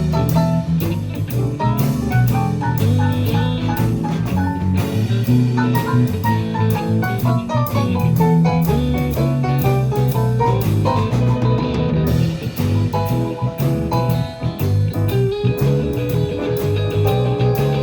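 Live blues band playing an instrumental break, with electric guitar, piano, bass and drum kit; runs of single melody notes step up and down over a steady drum beat.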